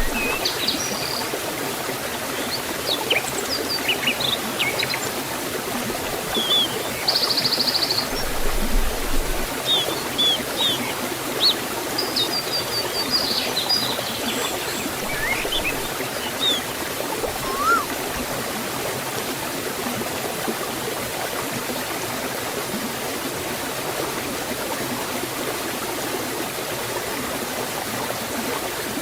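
Steady rushing of water from a waterfall in a forest. Small birds chirp over it in short high calls through the first half, with one brief buzzy trill about seven seconds in.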